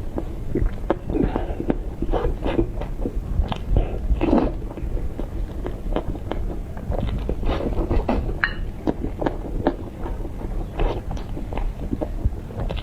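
A person chewing and biting food close to the microphone, with many short, irregular clicks and smacks.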